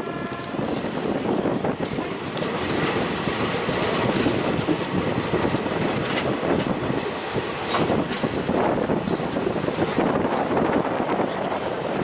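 Indian Railways passenger train running into a station, heard from an open coach doorway: steady rumble and rattle of wheels on track with a few sharp clacks over rail joints, and a thin high squeal that sets in about two seconds in and holds steady.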